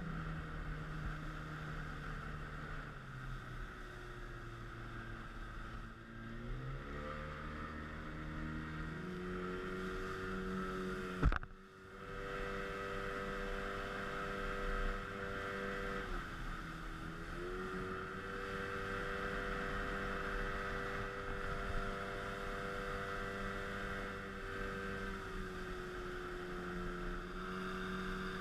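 Speedboat engine running steadily, its pitch falling and then rising again a few times as the throttle changes. A single sharp click comes about eleven seconds in.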